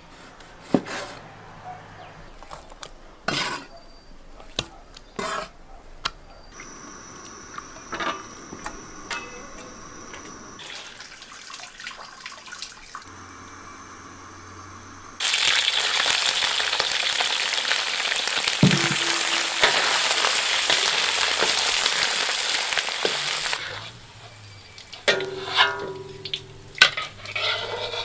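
A cleaver chopping pork belly on a wooden board, a handful of separate chops. About halfway through comes a loud, steady sizzle of pork belly pieces frying in hot oil in a wok, lasting about eight seconds. Near the end a metal wok ladle clinks and knocks against the wok.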